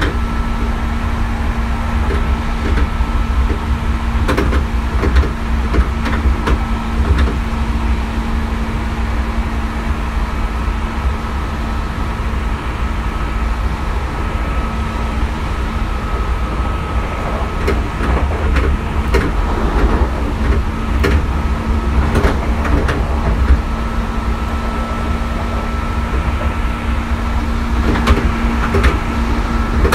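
Hankyu 3300 series electric train running along the line, heard from inside a former crew compartment in the middle of the train. A steady low rumble and a constant hum run throughout, with irregular sharp clicks and knocks from the wheels over the rail joints, clustered in places.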